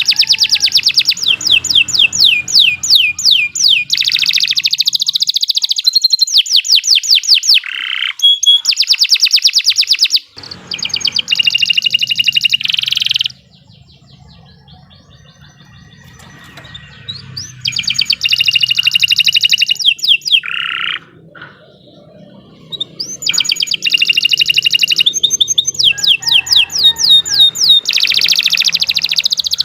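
Domestic canary singing long phrases of fast trills and rapidly repeated sweeping notes, with two short pauses partway through.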